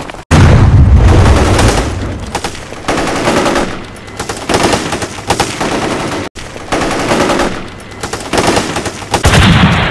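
Battlefield gunfire, machine guns firing in dense rapid bursts. It is loudest with a heavy low rumble in the first two seconds, and there are two very brief silent gaps, about a third of a second in and around six seconds in.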